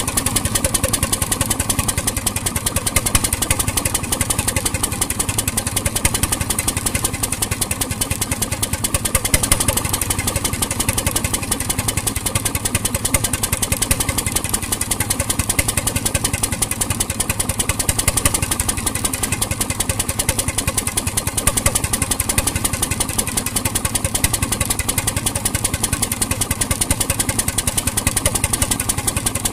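1921 RSM 3½ HP hotbulb marine engine running steadily, with a fast, even train of firing beats.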